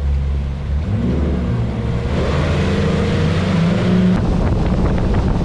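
Boat motor running low and steady, then revving up about a second in as the boat gets under way, with a rush of water and wind noise building behind it.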